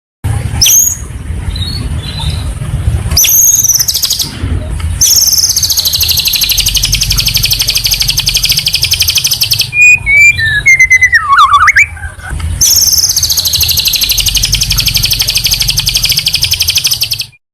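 Songbird song from a training recording: two quick rising whistles, then a long, very fast high buzzing trill lasting several seconds, a short warbled phrase in the middle, and a second long high trill, over a steady low hum. The sound starts and stops abruptly, as an edited recording does.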